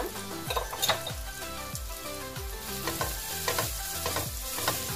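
Onion-tomato masala frying with a light sizzle in a non-stick kadai, stirred with a wooden spatula that scrapes and knocks against the pan now and then.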